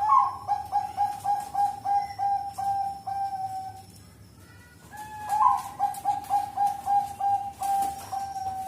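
Zebra dove (perkutut, Thai 'Bangkok' song strain) cooing in two bouts of quick, evenly spaced staccato coos. Each bout opens with a higher note, then runs at about three to four notes a second, with a pause of about a second between the bouts.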